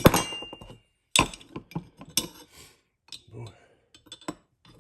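Sharp metal-on-metal taps and clinks of a hammer on a punch, driving a pin into an AR-15 lower receiver. There are a handful of irregularly spaced taps, and the first rings briefly.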